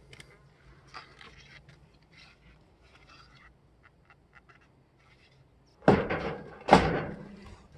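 Small clicks and scrapes of hardware and parts being handled while a CRT television is taken apart, then near the end two loud knocks about a second apart, each ringing out briefly.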